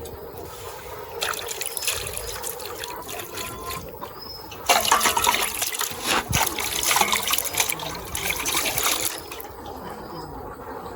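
Water running and splashing, as from a tap, louder from about five seconds in until about nine seconds.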